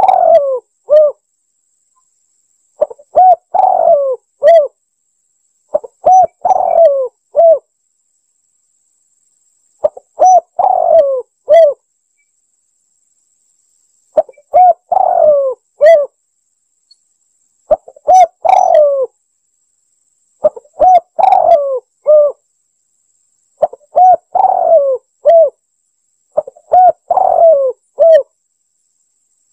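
Spotted dove (tekukur) cooing as a recorded lure call. A phrase of several low, soft coo notes comes about every three to four seconds, nine times over, with silence between the phrases.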